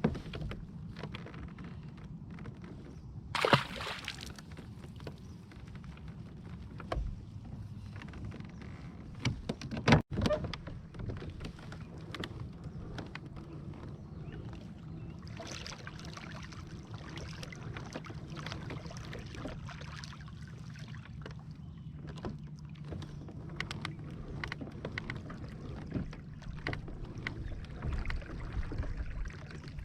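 Kayak moving on the water, with paddling and water sounds against the hull and scattered knocks. A sharp, loud knock comes about ten seconds in.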